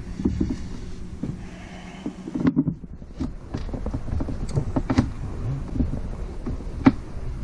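A valve being lapped into its seat in a Honda 400EX cylinder head with coarse grinding compound: gritty scraping with many short, irregular clicks as the valve is turned back and forth.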